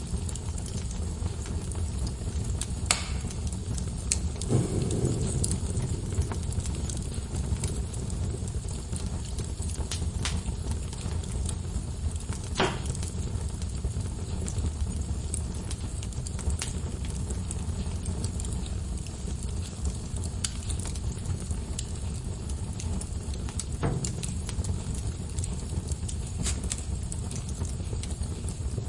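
Wood fire burning in a fireplace: a steady low rumble of the flames with constant small crackles and a few sharper pops from the logs.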